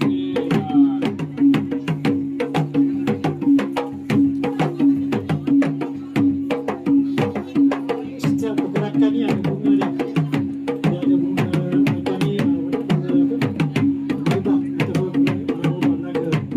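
Gendang silat music for a silat display: fast, dense hand-drum strokes over a steady held tone, with the drum pitches bending.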